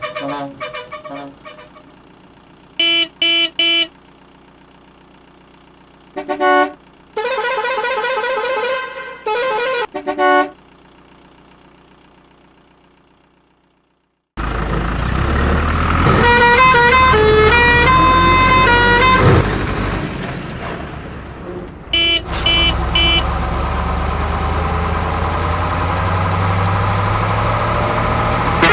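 Vehicle horns honking: groups of short toots and one long blast of a couple of seconds. About halfway through a loud noisy sound starts suddenly, with a tune of changing horn-like notes over it, then three more short toots and a steady running noise.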